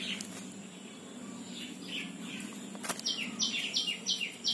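Birds chirping outdoors with short, falling chirps. About three seconds in, a bird starts a fast run of repeated short descending notes, about three or four a second, just after a brief click. A steady low hum sits underneath.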